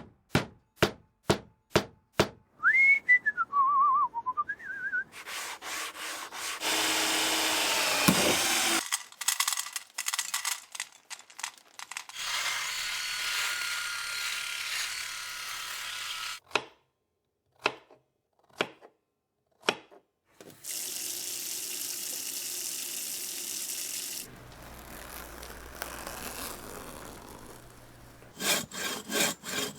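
A string of assorted everyday sound effects, with no speech. Evenly spaced knocks about twice a second open it, followed by a short warbling whistle that dips and rises. After that come long stretches of rasping, rubbing noise broken by scattered clicks, and a quick run of clicks near the end.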